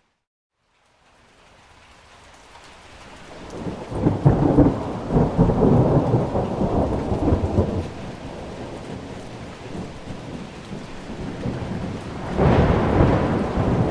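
Thunderstorm: steady rain with a long rolling peal of thunder building about three to four seconds in and fading after eight, and a second thunderclap rumbling in near the end. It opens with a second of complete silence before the rain fades back in.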